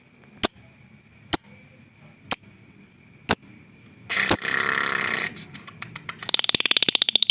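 Lovebird calling: five sharp, high chirps about a second apart, then a harsh, buzzy call lasting about a second, then a fast rattling trill of rapid pulses near the end. It is a young lovebird practising the long chattering 'ngekek' song, still learning it.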